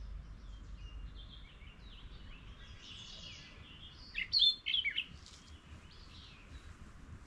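Several wild birds singing and chirping, with a louder call of a few quick, sharp notes about four seconds in, over a faint low rumble.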